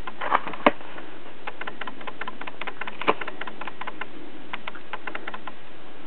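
Small irregular clicks and taps from handling and leafing through a paper booklet, with sharper knocks twice in the first second and once about three seconds in, over a steady hiss.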